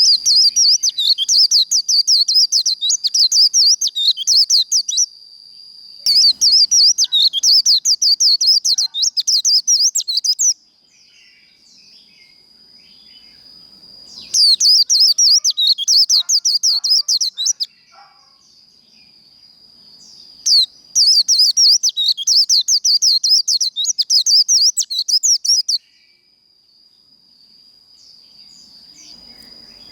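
White-eye singing its fast, twittering 'líu' song in four bouts of four to five seconds each, with short pauses between them. A thin steady high whine runs underneath.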